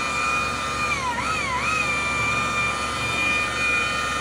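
Rotary buffer with a wool pad running with a steady high whine while cutting paint with heavy cutting compound. About a second in, its pitch dips twice briefly and then recovers.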